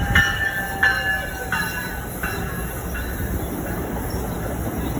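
Train rolling past, its wheels giving a series of short squealing rings about three-quarters of a second apart that die away after about three seconds, over a steady low rumble.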